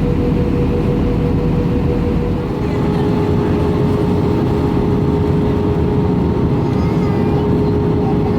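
Airbus A318 jet engine and airflow noise heard inside the passenger cabin: a loud, steady hum with a steady tone that drops slightly in pitch about two and a half seconds in.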